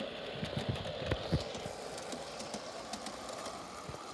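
Model railway train running along the track, a steady rumble with a few sharp clicks and knocks in the first second and a half.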